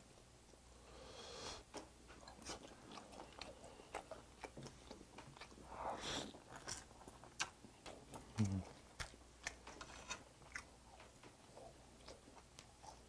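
Faint close-up eating sounds: biting into and chewing a piece of braised dried pollack, with small scattered clicks.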